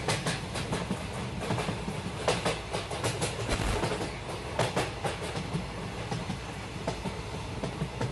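A moving train: a steady low rumble with irregular clacks of wheels running over rail joints.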